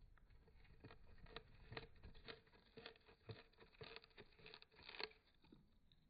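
Budgerigar nibbling at a cardboard toilet paper tube: quick, quiet little crunches and tearing clicks of beak on cardboard, several a second, stopping about five seconds in.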